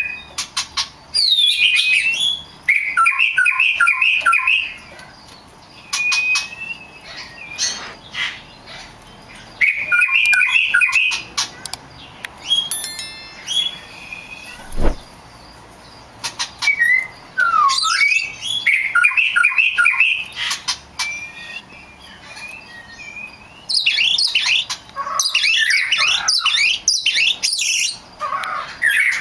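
Oriental magpie-robin (kacer) singing loud phrases of rapid repeated whistled notes and harsh chattering calls, every few seconds with short pauses between. A single sharp knock comes about halfway through.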